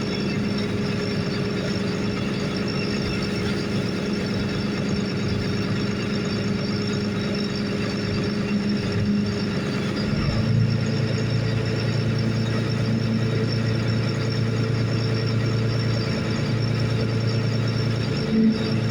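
Boat engine running steadily, its low hum growing stronger about ten seconds in as it takes more load, with a short thump near the end.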